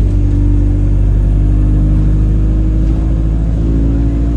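Alexander Dennis Enviro200 single-deck bus under way: a low engine and driveline rumble with a steady droning tone on top. The tone holds its pitch and steps up slightly near the end. It is an abnormal noise that the owner suspects comes from the gearbox, and the bus feels sluggish.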